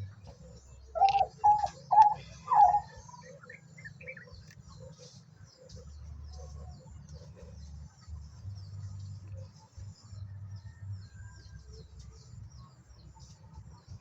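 Farm poultry calling: four loud, pitched calls about half a second apart, starting about a second in, then a run of softer short calls over a low steady rumble.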